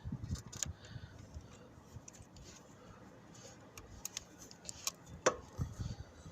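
Scattered light clicks and taps of a removed scooter part being handled and set down, with one sharper click about five seconds in.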